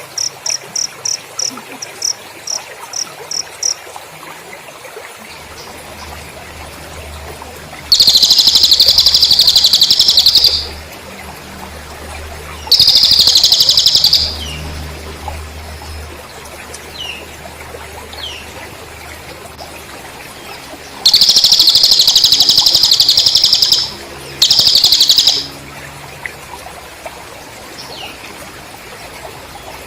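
A cricket chirping in a fast, even pulse for the first few seconds. Then a cililin bird sings four loud, rapid warbling phrases of one to three seconds each, with pauses between them.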